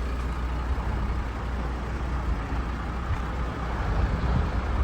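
Diesel engine of a 2008 Hyundai Mega Truck 5-ton dump truck running steadily, with a constant low rumble.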